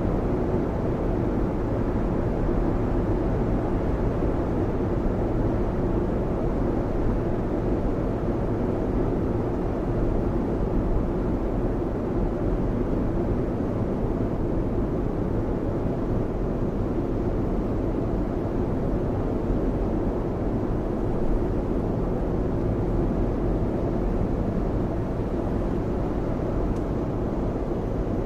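Steady road noise from inside a Lexus RX driving at speed through heavy rain: an even low rumble of tyres on the soaked expressway, mixed with rain on the car.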